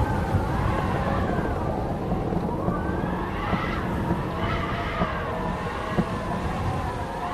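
Howling wind: several wavering, whistling tones rising and falling over a deep steady rumble, with a few brief sharp knocks.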